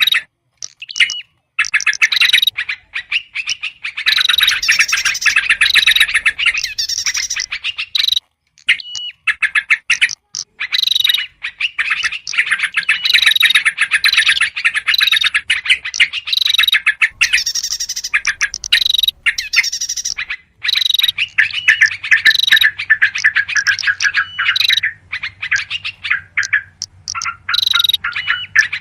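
Bird-lure recording of yellow-vented bulbuls giving agitated, noisy chattering calls: dense runs of rapid notes broken by short pauses, with a few brief whistled notes.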